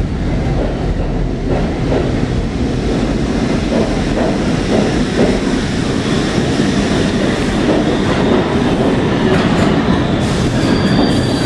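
R142 subway train running along the station track with a steady rumble and wheels clacking over rail joints. A high-pitched wheel squeal starts near the end.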